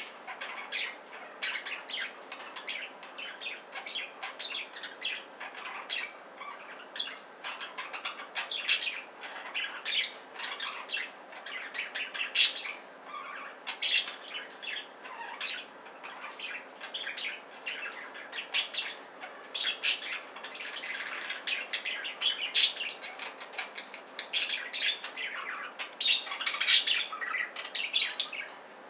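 Budgerigars chirping and chattering continuously in quick, uneven bursts, with an occasional louder squawk.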